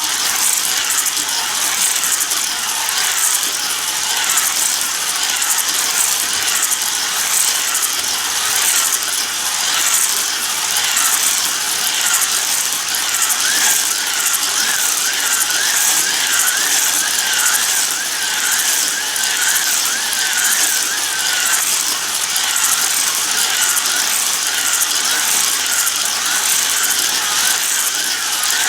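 Battery-powered Hot Wheels slot cars running laps on a plastic figure-8 track: a steady mechanical clatter of the small cars on the track, with a small electric motor whine that wavers up and down.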